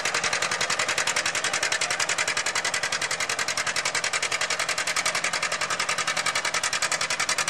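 Antique tractor engine running steadily with a rapid, even exhaust beat of about ten pulses a second.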